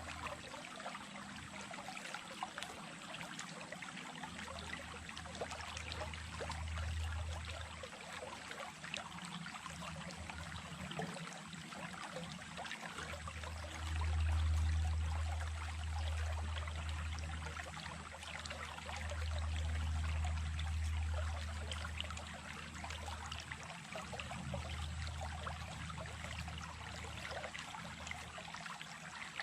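Small stream running, a steady babble and trickle of water. A low rumble swells up twice, around the middle and again a little later.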